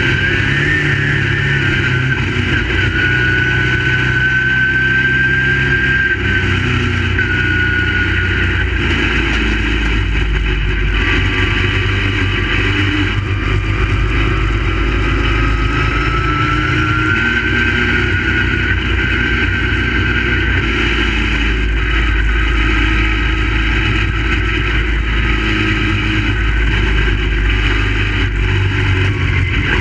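Crate late model race cars' V8 engines running continuously on the track, several engine notes rising and falling in pitch as the cars accelerate and lift.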